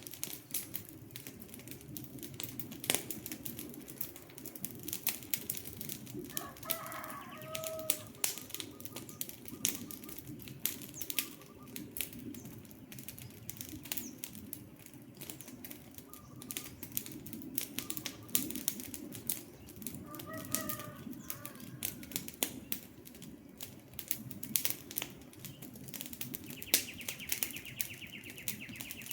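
Wood fire crackling with irregular pops and snaps over a low rush of burning. A bird calls in short phrases about seven seconds in and again around twenty seconds, and a buzzy trill sounds for a couple of seconds near the end.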